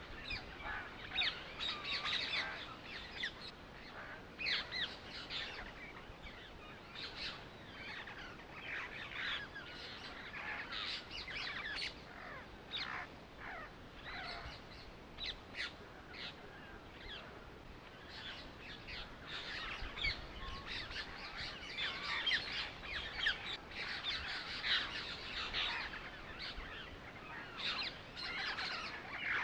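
Birds chirping and calling, many short quick chirps overlapping without a break.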